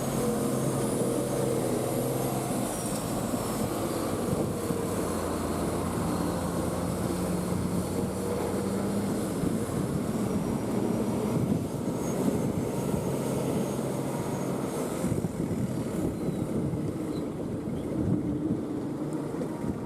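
Heavy lorry's diesel engine running with a steady low drone over rough noise, its pitch shifting a few times.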